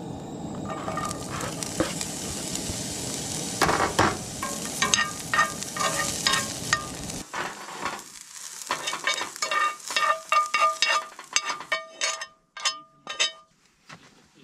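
Diced onion and bell pepper hitting hot oil in a cast-iron skillet and sizzling steadily, with a utensil scraping through them. About seven seconds in the sizzle drops away, and a run of quick scrapes and taps on the pan follows, several with a short ringing note.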